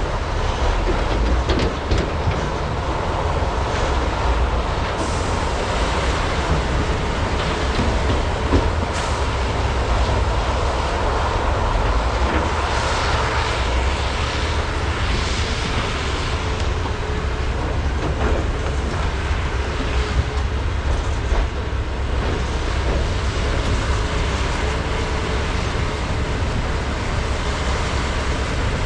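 Large diesel hydraulic excavators running steadily under load, with a few sharp knocks scattered through.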